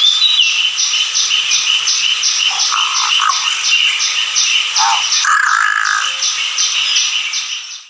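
Large-billed crow (Indian jungle crow) giving a few short harsh calls, a recording played to show its voice. Behind them a high, steady pulsing chorus of about three to four beats a second keeps up, and another bird gives a brief whistle at the start.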